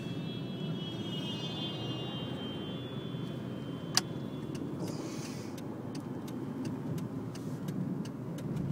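Steady road and engine noise heard from inside a moving car. A cluster of faint high tones fades out about two seconds in, and there is a single sharp click about four seconds in.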